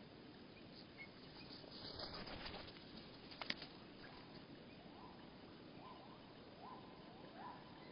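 Faint feeder-bird sounds slowed to one-third speed: a brief rustle about two seconds in and one sharp click, then a series of short rising calls, lowered and stretched by the slowdown, repeating about once every 0.7 seconds.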